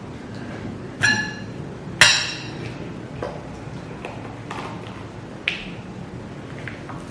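Utensil clinking against a dish while eating: two ringing clinks about a second apart, the second louder, then a few lighter taps.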